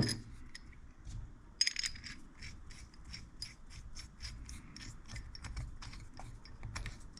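Small steel parts being handled and fitted together by hand: a light metal clink, then a string of faint ticks and rubbing at about two or three a second.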